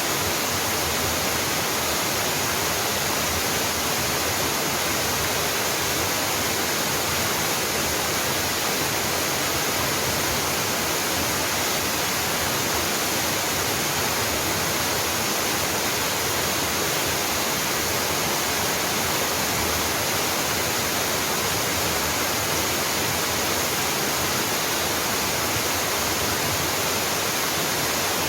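Waterfall pouring steadily: a constant, even rush of falling water with no change in level.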